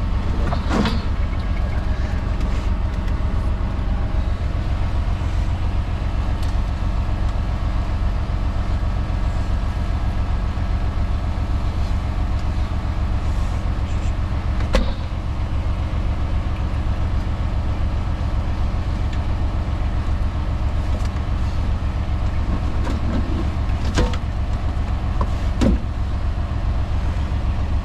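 Semi truck's diesel engine idling steadily, with a few sharp knocks and clicks from work in the cab.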